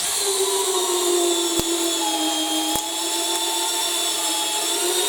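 Makita XPH07 brushless 18 V cordless hammer drill in low gear driving a long landscape screw into wood. The motor runs at a steady whine under load, its pitch sagging slightly early on, with two short clicks during the drive.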